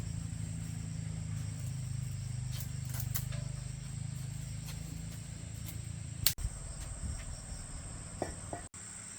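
Small single-cylinder motorbike engine idling with a fast, even low pulse that drops away after about six seconds, around a sharp click. A steady high-pitched whine sits over it throughout.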